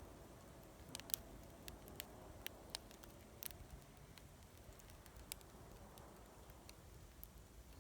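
A plum-wood fire crackling faintly, with irregular sharp pops and snaps.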